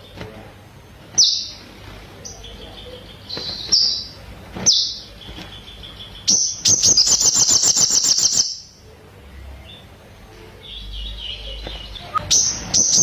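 Crimson sunbird (sogon) singing: sharp high chirps, then a fast rattling trill of about two seconds in the middle, with softer twittering notes between. Another trill starts near the end. The song is filled with phrases imitating the ciblek (bar-winged prinia).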